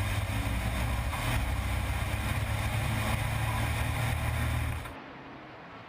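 Racing trucks' diesel engines running loud and steady, with heavy deep bass. About five seconds in the sound drops suddenly to a much quieter, duller engine noise.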